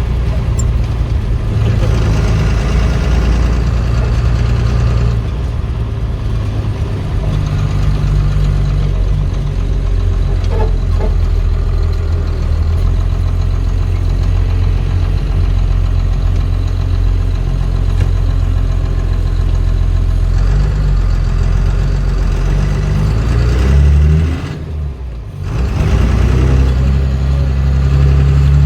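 Cummins turbo diesel engine in a Chevy C30 truck running, its pitch stepping up and down a few times as the revs change. About 24 seconds in it briefly falls off, then picks up again.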